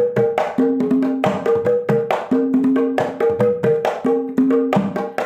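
Kendang, the Javanese two-headed hand drum, played alone in a fast, steady rhythm of sharp strokes that alternate between a ringing low tone and a higher tone, as in a sound check of a kendang kempul drum.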